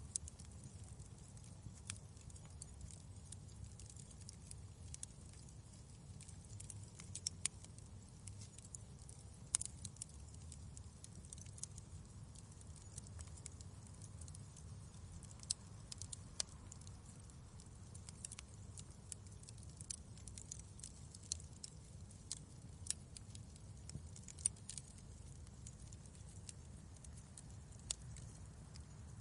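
Wood fire crackling in a fireplace: irregular sharp crackles and pops, a few louder than the rest, over a steady low rumble of the flames.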